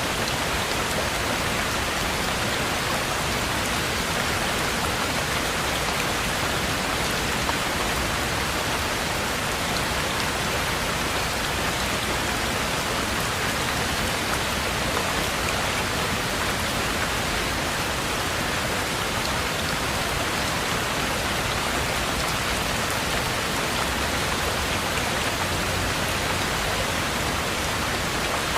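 Heavy rain falling steadily, an even, unbroken hiss with no distinct drops or thunder standing out.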